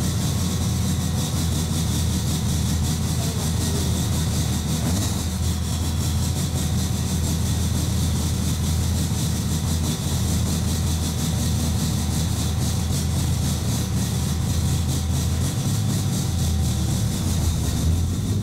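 Turbocharged Nissan S13 Silvia engine idling steadily, heard from inside the car's cabin, the low hum wavering briefly near the end.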